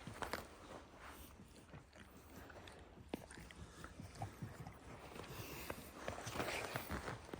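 Faint scattered clicks and scuffs of footsteps and movement, with a longer stretch of rustling about six seconds in.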